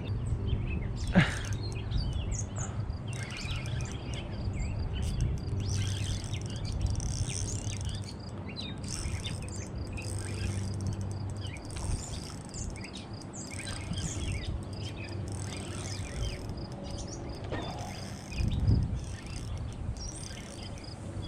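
Outdoor ambience of birds chirping and an insect trilling steadily, over a low rumble. A sharp knock comes about a second in and a louder low thump near the end.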